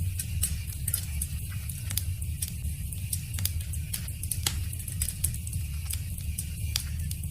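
Wood fire crackling, with frequent irregular sharp pops over a steady low rumble of the burning.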